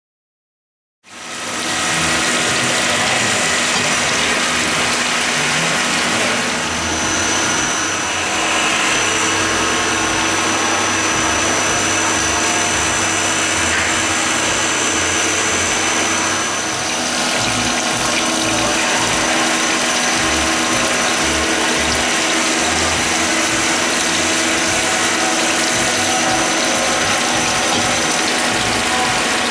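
Star RNC16 CNC sliding head lathe running, a steady dense mechanical sound that starts abruptly about a second in. A thin high whine sits over it for most of the time.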